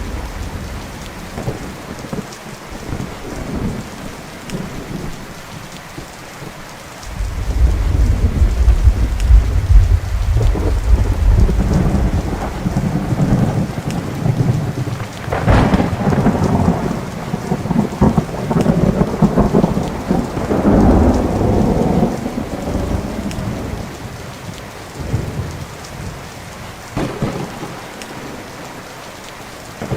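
Thunderstorm: steady rain with rolling thunder. A low rumble builds about a quarter of the way in, a sharp crack comes near the middle, and the thunder rolls on before dying away, leaving the rain.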